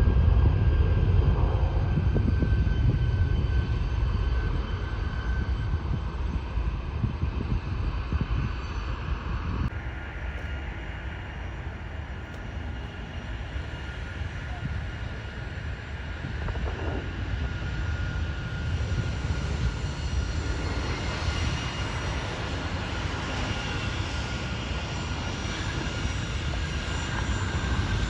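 Airliner jet engines: a low rumble with steady whining tones, loudest at the start and fading over the first dozen seconds, then building again toward the end.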